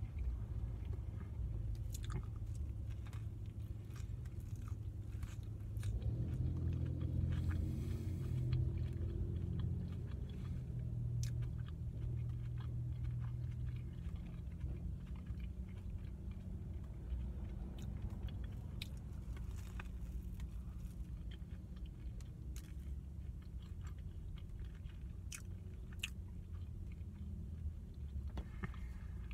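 Close-up chewing of a toasted sub sandwich with crusty bread: crunching, wet mouth clicks and smacks scattered throughout, over a steady low hum.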